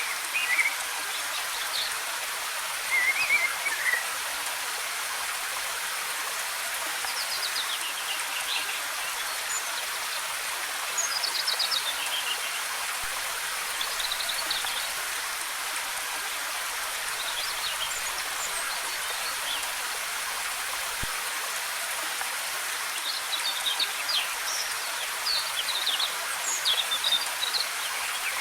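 Steady rushing of a waterfall, with short bird chirps scattered over it that come more often near the end.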